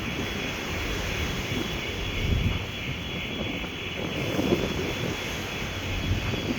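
Steady drone of the car ferry Red Eagle's engines under way, with an uneven low rumble swelling and easing beneath it.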